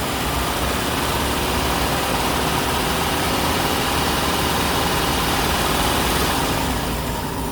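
Chrysler 3.8-litre V6 engine of a 2005 Town & Country minivan idling steadily under a constant hiss. The engine is run at idle with the radiator open to bleed trapped air out of the freshly refilled cooling system while the thermostat warms up to open.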